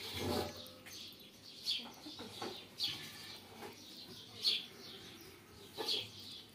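Faint bird chirps in the background: four or five short, high calls spaced a second or so apart.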